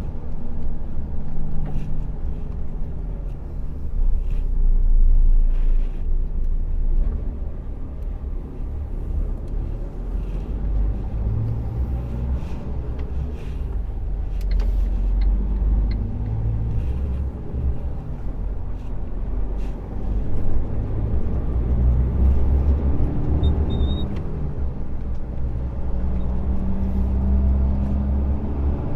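Heavy truck's diesel engine and road rumble heard from inside the cab while driving, the engine note shifting in pitch a few times as speed changes.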